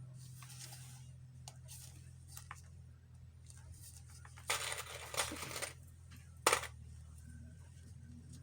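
Paper and craft materials being handled on a table: soft rustling and a few light clicks, a longer louder rustle about four and a half seconds in, and a sharp click about six and a half seconds in, over a steady low hum.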